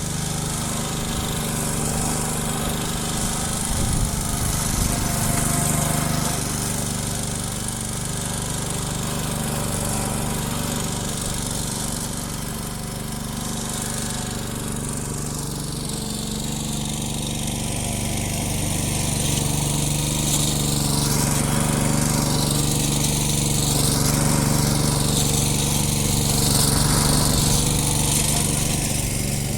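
Push lawn mower's Briggs & Stratton single-cylinder four-stroke engine running steadily while mowing tall grass, its note shifting slightly partway through.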